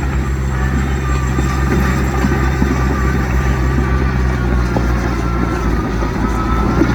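Heavy diesel earthmoving machinery running steadily, a deep even engine note with a faint high whine that rises slightly near the end.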